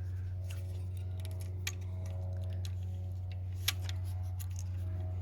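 Small plastic and metal parts of an EGR valve's gear housing being handled: light scattered clicks, with two sharper clicks about two seconds apart, over a steady low hum.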